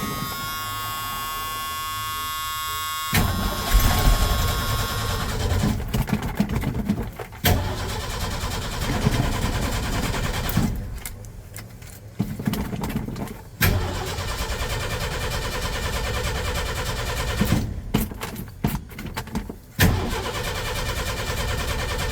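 A steady electrical buzz for the first few seconds, then the 1986 Ford F250's 300 cubic-inch inline-six being cranked with the starter, in several attempts broken by short pauses. Random wires have just been disconnected under the dash, and one of them was probably important to the ignition.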